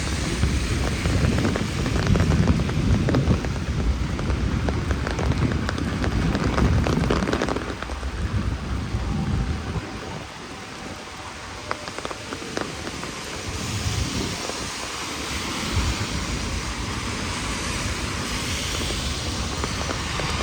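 Heavy rain falling and splashing on the street, with many small drop impacts. A deep rumble runs under it for the first eight seconds or so, then fades, leaving the rain alone.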